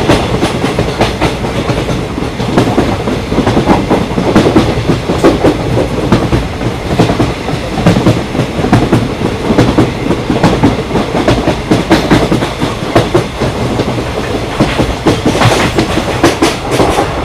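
Moving express passenger train running on the rails, a steady rumble with wheels clattering irregularly over rail joints.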